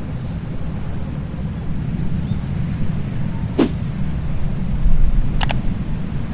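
Wind buffeting the microphone with a steady low rumble. A brief click comes about three and a half seconds in, and two quick clicks about five and a half seconds in.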